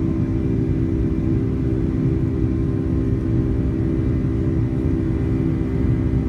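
Boeing 757-200 jet engines heard from inside the passenger cabin, running steadily at high power as a loud, even rumble with a steady low hum.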